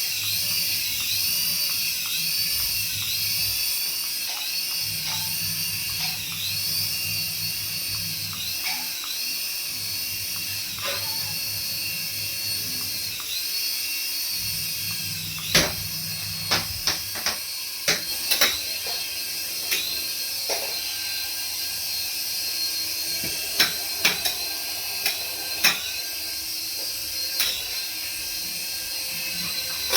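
Small electric toy motor whining steadily at high pitch, the pitch wavering in a regular cycle about once a second. Sharp clicks and knocks come in the second half.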